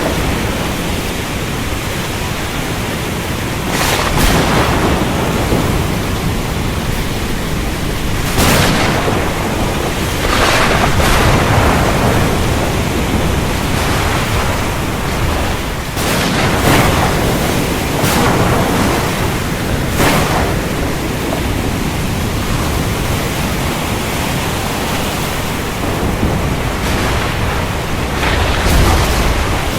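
Steady heavy rain with thunder over a constant low rumble. Sharp thunderclaps come every few seconds, several close together in the middle and one more near the end.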